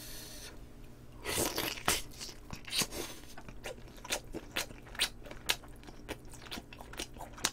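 A person chewing and biting meat off pieces of spicy braised chicken on the bone: a run of short mouth smacks and small crunches, with a longer chewing noise about a second and a half in.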